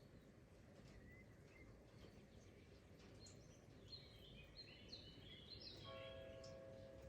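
Faint, steady patter of rain with small birds chirping through it, busiest just past the middle. Near the end a steady, even-pitched hum sets in.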